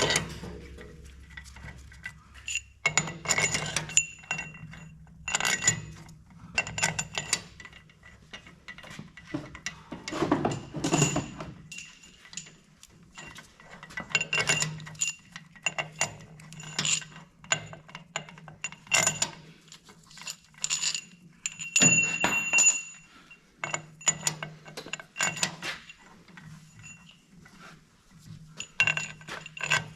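Oliver 77 tractor engine's steel head bolts being handled and spun into the cylinder head by hand: an irregular string of light metallic clinks, taps and rattles, bolt against bolt and against the head.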